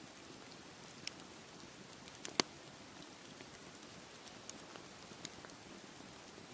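Campfire crackling, with scattered sharp pops, the loudest about two and a half seconds in, over a steady hiss of sea surf.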